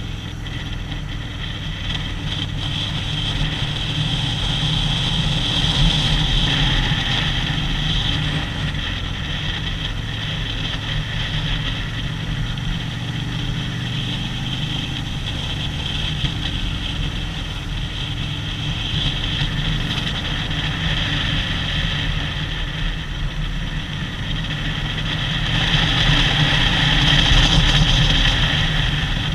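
Harley-Davidson V-twin motorcycle engine running steadily on the move, swelling louder near the end.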